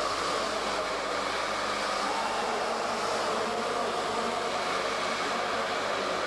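Small minimoto (pocket bike) engine running steadily at high revs, a constant buzzing whine without clear changes in speed.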